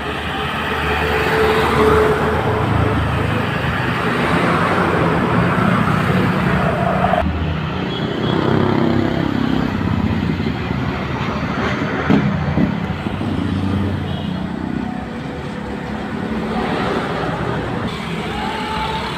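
Road traffic noise: vehicle engines and tyres passing, with a steady low engine rumble.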